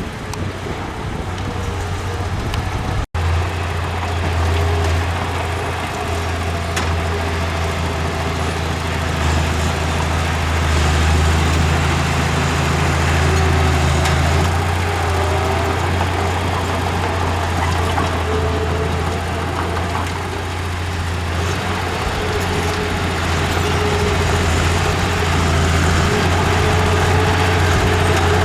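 Diesel engine of heavy earthmoving equipment running steadily with a low drone, broken by a momentary dropout about three seconds in.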